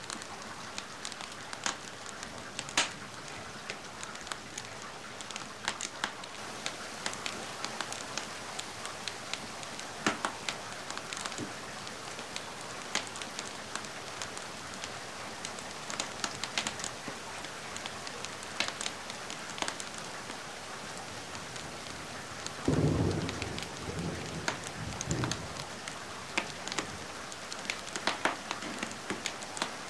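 Steady rain with scattered sharp crackles and pops from a wood fire. A low rumble of thunder rises about three-quarters of the way through and lasts around three seconds.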